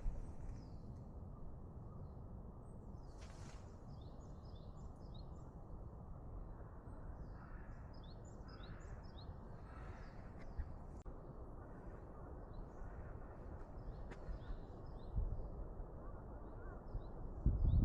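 Small birds chirping and twittering in quick short notes over a steady low outdoor rumble, with a dull low thump near the end.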